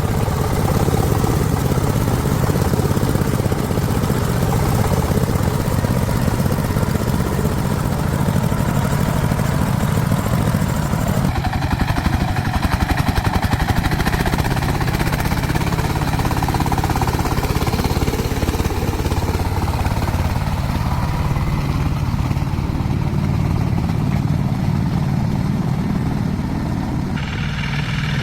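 A farm vehicle's engine running steadily with a rapid, even pulse. Its sound changes about eleven seconds in and again near the end.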